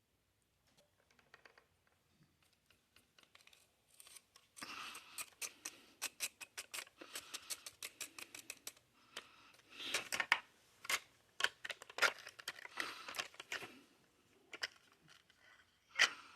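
Close-miked crisp crackling and rapid clicking in several bursts, the loudest about ten and thirteen seconds in, from handling Tate's crunchy cookies and their packaging, followed by one sharp click near the end.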